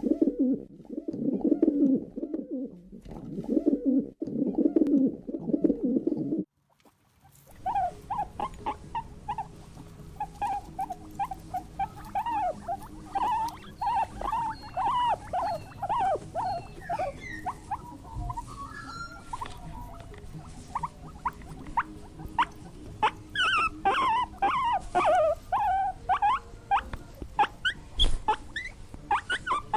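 Animal calls in two parts: first a lower pulsing call for about six seconds that cuts off suddenly, then, after a second's break, a long run of rapid high squeaks and chirps from small animals, thickest near the end.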